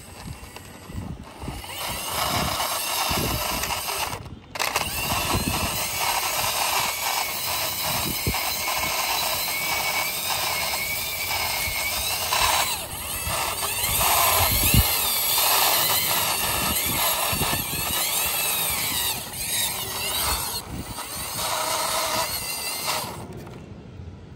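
Small toy vehicles' wheels rolling and grinding along a rough wall top as they are pushed by hand, a steady rattling scrape. It breaks off briefly about four seconds in and stops shortly before the end.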